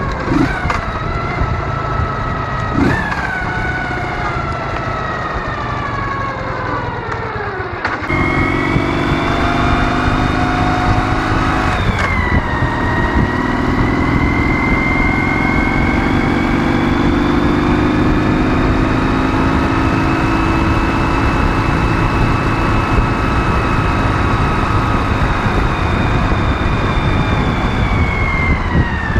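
Ural motorcycle's 650 cc flat-twin engine under way with wind and road noise: the engine note falls for several seconds, jumps louder and higher about eight seconds in, drops sharply at a gear change a few seconds later, then climbs and holds steady before falling again near the end.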